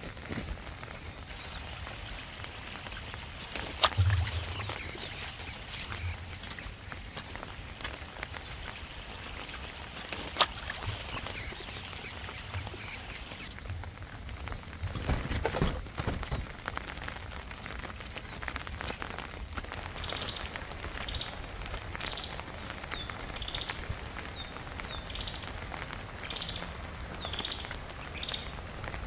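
Birds calling over a steady hiss of rain. Two loud runs of quick, high repeated notes come in the first half, about ten notes each. A softer series of lower chirps repeats through the second half.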